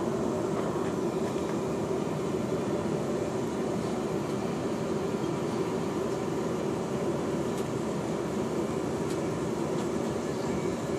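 Passenger train running at speed, heard from inside the carriage: a steady running noise with a constant low hum.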